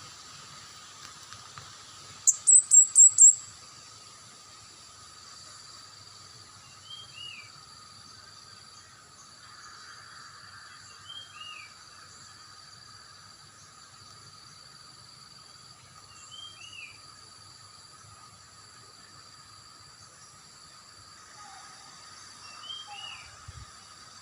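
Bird calls: a quick run of five very high, sharp notes about two seconds in, the loudest sound, then a short two-part downslurred call repeated four times at intervals of several seconds, over faint steady high-pitched background tones.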